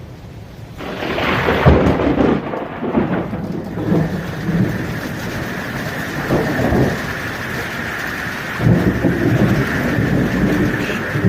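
Thunder rumbling in several rolls over steady rain. The storm noise swells about a second in, and the loudest rolls come near the start and again about three quarters of the way through.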